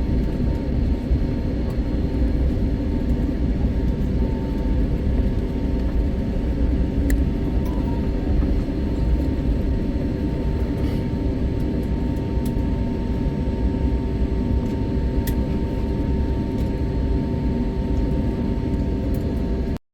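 Steady low engine drone with a faint steady whine over it, cutting off abruptly at the very end.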